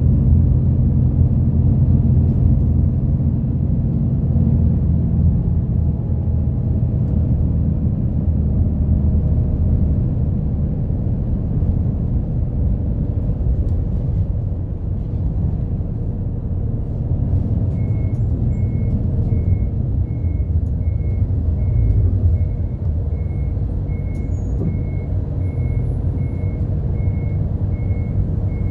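Route bus engine running steadily, heard from inside the cabin, with its pitch settling lower a few seconds in. About two-thirds of the way through, a short high electronic beep starts repeating evenly, a little under twice a second.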